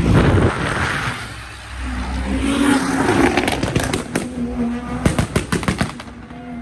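A performance car engine revs hard, settles into a lower running note, then lets out a rapid string of sharp exhaust pops and crackles that die away near the end.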